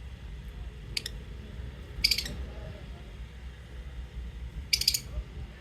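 Lovebird giving three short, sharp high-pitched chirps, about a second in, about two seconds in and near the end, over a steady low hum.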